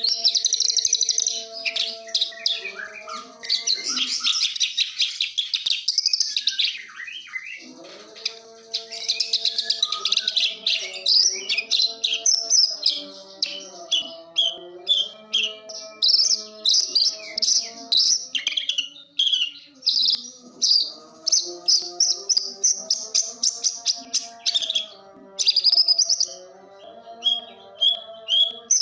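A branjangan (Javan bushlark) singing a long, fast run of varied high chirps and trills, with hardly a pause, over soft background music of held low notes.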